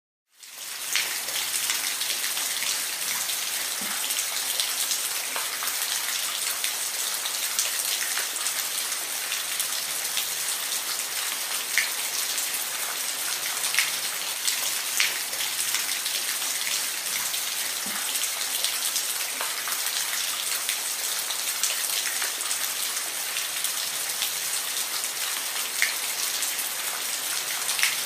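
Steady rain falling, a dense hiss with scattered louder drop ticks, fading in during the first second.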